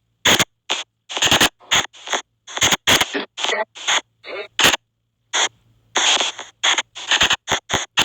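SP White Noise Box spirit-box app sweeping: short bursts of hissing white noise that cut in and out about three times a second with irregular gaps, a few of them carrying brief pitched, voice-like fragments.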